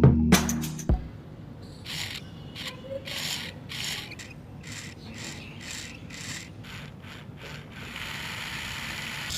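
Repeated short scraping or rubbing strokes, about two to three a second, like a tool or hand working a small part, followed by a steady hiss near the end.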